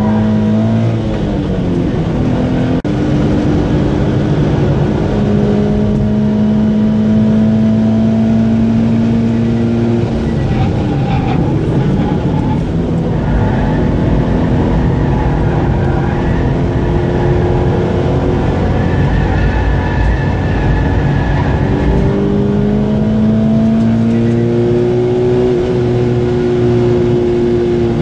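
Subaru BRZ's flat-four boxer engine heard from inside the cabin on track. It rises in pitch under acceleration, drops away about ten seconds in and again around twenty-one seconds, then climbs again near the end, over steady road and tyre noise.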